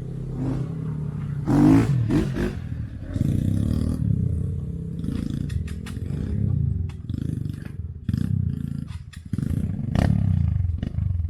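Motorcycle engine revving up and down repeatedly on a rough trail, with scattered knocks and rattles in the middle.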